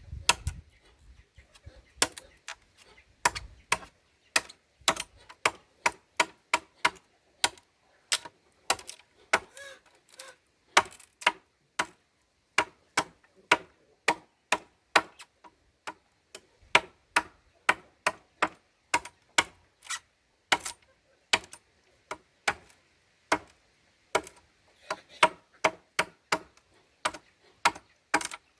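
A hand tool striking over and over in sharp knocks, about two a second, in uneven runs with brief pauses.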